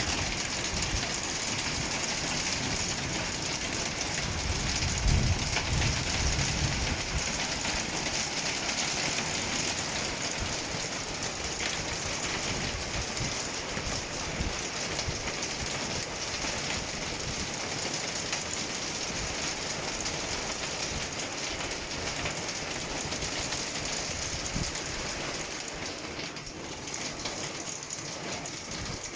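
Hailstones falling hard and pelting surfaces, a dense, steady clatter of countless small impacts that eases a little near the end. A brief low rumble comes about five seconds in.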